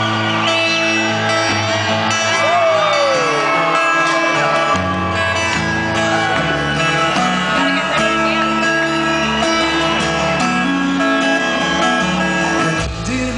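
Live rock band playing the acoustic-guitar intro of a song, with bass coming in about five seconds in. Crowd whoops and shouts rise over the music.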